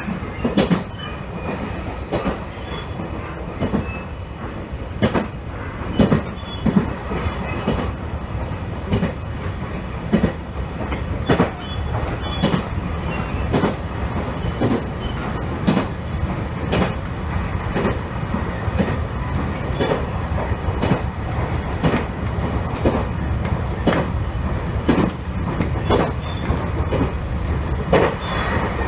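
A train running along the track: a steady low rumble from the wheels and running gear, with sharp clicks about once or twice a second as the wheels pass over rail joints.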